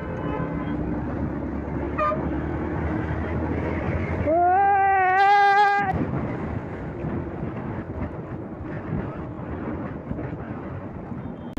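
A vehicle horn blows once, for about a second and a half, starting about four seconds in, with a slightly wavering pitch. It sounds over the steady noise of motorcycle riding in traffic, with a very short beep about two seconds in.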